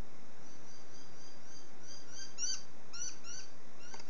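A small bird chirping over and over, short rising-and-falling chirps a few times a second, over a steady hiss.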